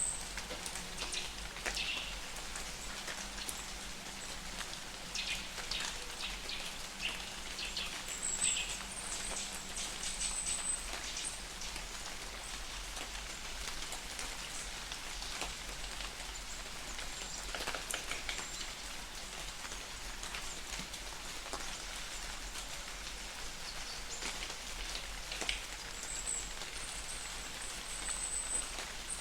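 Light rain falling in a forest, a steady hiss with individual drops ticking close by. A bird gives short high-pitched calls twice, around nine seconds in and again near the end.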